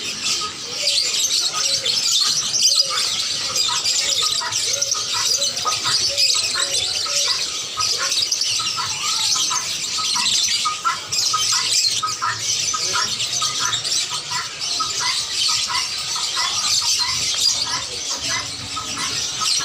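Many caged birds chirping, twittering and squawking at once in a dense, continuous chorus, with short repeated calls standing out throughout.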